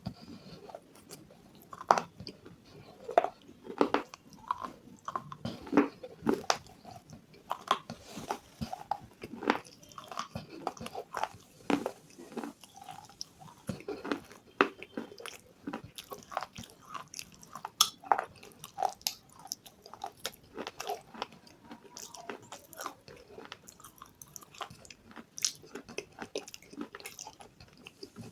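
A person biting and chewing crunchy food close to the microphone: irregular crisp crackles, with a sharper bite every second or two.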